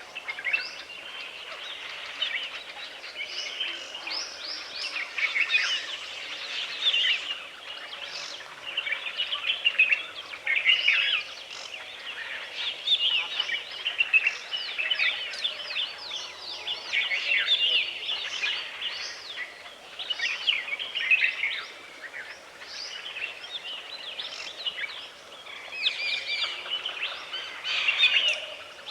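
Woodland ambience of many small birds chirping and trilling at once in dense overlapping calls, over a faint background hiss.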